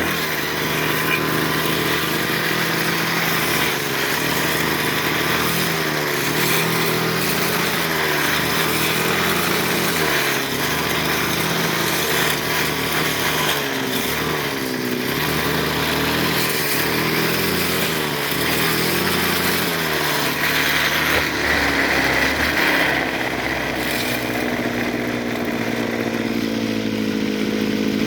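Brushcutter engine running at high revs while its metal blade cuts through tall brush, the engine pitch dipping and recovering again and again as the blade bites into the growth. Near the end the pitch steadies.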